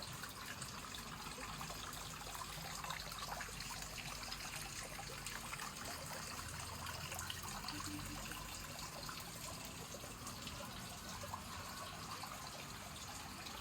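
Steady trickle of running water, dotted with many small clicks and ticks.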